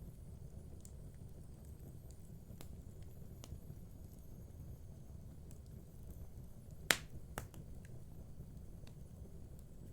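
Wood fire burning in a fireplace: irregular sharp crackles and pops over a low steady rumble, with the loudest pop about seven seconds in.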